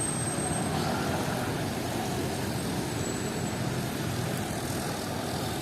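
Steady street traffic noise: a continuous rumble of vehicles passing.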